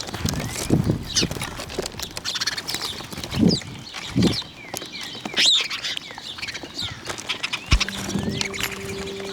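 Small birds chirping and twittering in quick, overlapping calls, with a few low soft thuds among them. Near the end a click is followed by a steady low hum.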